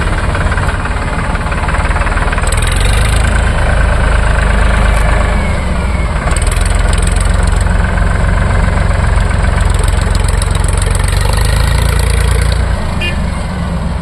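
Heavy diesel engine running steadily with a deep rumble, dipping briefly near the end.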